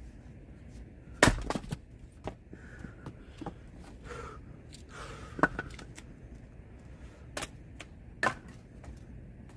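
Axe chopping firewood: three sharp strikes, about a second in, in the middle and near the end, with lighter knocks of wood between.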